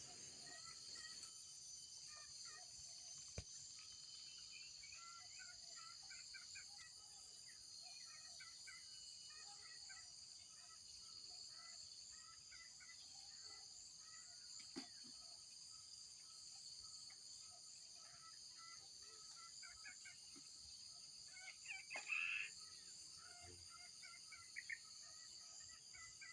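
Faint steady high-pitched insect drone, like crickets, with many small bird chirps scattered through it and a short louder call about 22 seconds in.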